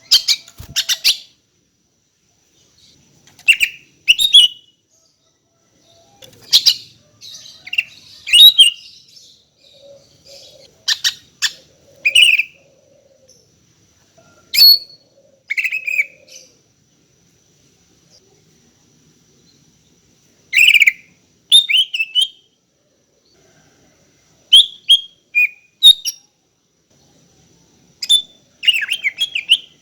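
Female green leafbird (cucak ijo) calling for a male: short bursts of rapid, high chirps and whistles every few seconds, with a longer pause about two-thirds of the way through.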